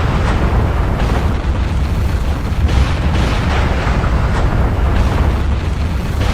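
Volcanic eruption: a deep, continuous rumbling with several rushing blasts breaking over it, a second or so apart.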